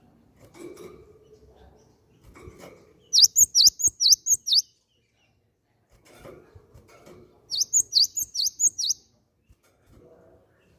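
Cinereous tit (gelatik batu) singing: two phrases of about six quick, high, sharply sweeping notes, the first about three seconds in and the second near eight seconds, with softer low rustling between them.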